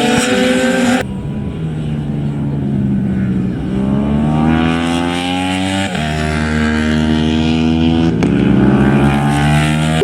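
Racing motorcycle engines at high revs, the pitch climbing as they accelerate, with sudden breaks in the sound about a second in and again around six seconds.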